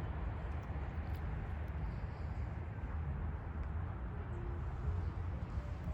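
Outdoor walking ambience: a steady low rumble with a few faint, short distant sounds over it.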